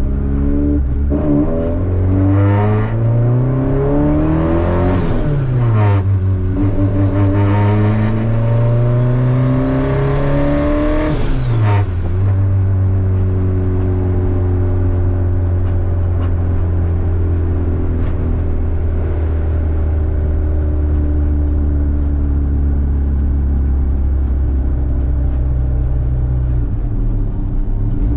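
Honda Civic engine accelerating hard through two upshifts, its pitch climbing and then dropping sharply at each shift, about five seconds in and again about twelve seconds in. It then settles into a steady cruising drone.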